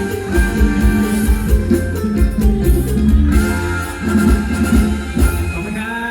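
Live mor lam band playing an instrumental passage: a plucked guitar-like melody over heavy bass and a regular drum beat.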